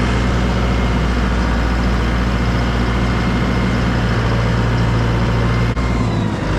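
Heavy farm machine engine running steadily, with a brief dip in level just before the end.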